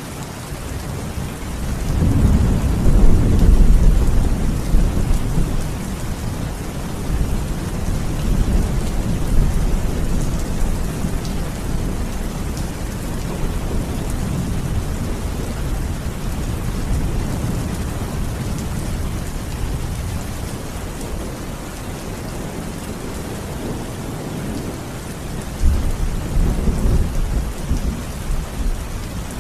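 Steady rain falling, with thunder rumbling: a long, deep roll builds about two seconds in and fades slowly over the following seconds, and another rumble starts near the end.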